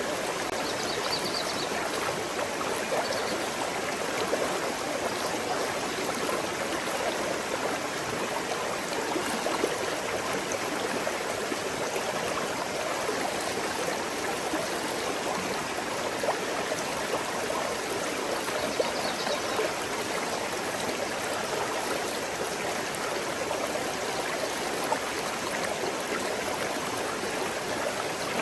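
Small forest stream flowing over stones: a steady, even babble of running water.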